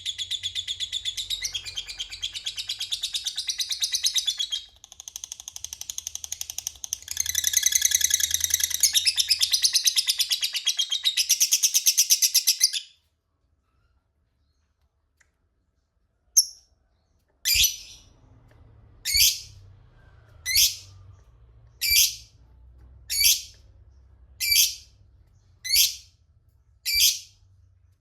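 Lovebird ngekek: a long, fast chattering trill running for about thirteen seconds, with a short dip around five seconds in. After a few seconds' pause come about eight single sharp calls, roughly one every second and a half.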